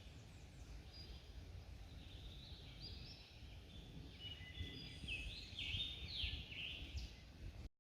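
Songbirds singing, with a run of short chirps and trills that grows busier in the second half, over a steady low rumble of outdoor noise; it all cuts off suddenly near the end.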